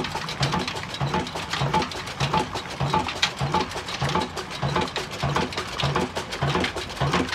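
Old Ruston Hornsby single-cylinder diesel engine running at slow speed: a regular low thump a little under twice a second over a constant mechanical clatter.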